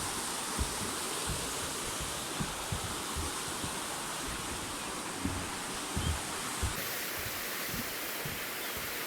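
Steady rushing of flowing river water, with irregular low thumps through it.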